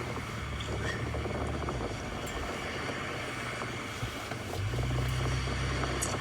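Wind rumbling on the microphone outdoors, steady and growing stronger about four and a half seconds in.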